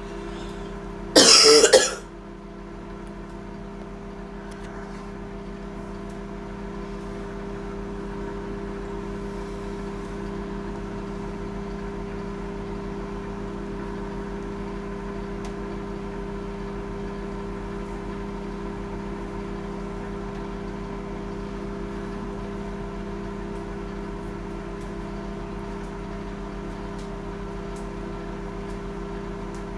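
A steady electrical hum from a running kitchen appliance, holding an even pitch throughout, with a brief cough or throat clearing about a second in.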